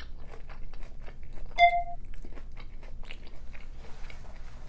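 Close-up chewing of a mouthful of birria taco with small irregular crunches. A short electronic beep sounds about a second and a half in.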